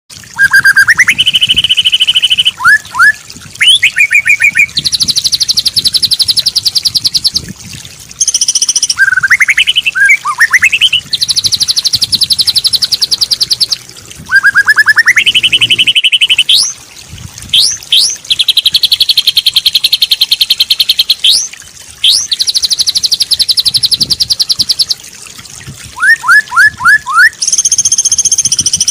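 Bird-song tutor recording (masteran) for training white-rumped shamas, with song fill-ins. Long, very even rapid trills alternate with quick upward-sweeping whistled notes and short chirps, phrase after phrase with brief gaps.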